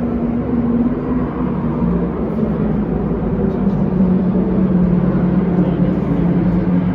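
Steady drone of engines, a held low pitch that drops slightly about four seconds in, over a rumbling background.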